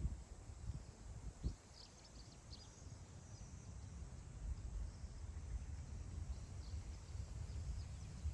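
Wind blowing over open grassland, buffeting the microphone as a low rumble, with two stronger gusts in the first second and a half. Faint, short, high bird chirps come through twice in the distance.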